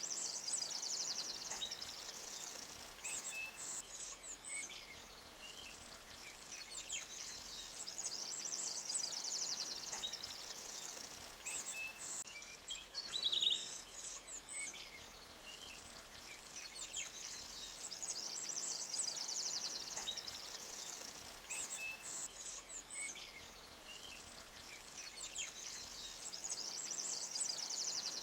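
Forest ambience: small birds chirping and trilling, with a high, buzzing chorus that swells and fades every nine or ten seconds and one louder call about halfway through, over the faint rush of a clear woodland stream.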